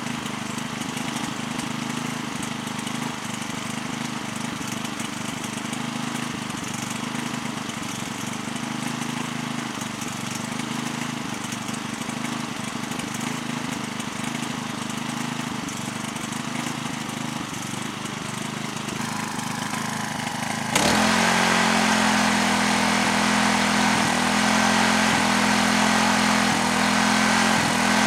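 Honda FG201 cultivator's small engine running steadily at idle, then about three-quarters of the way in it suddenly runs louder and harder, as if the throttle were opened, holding that higher speed.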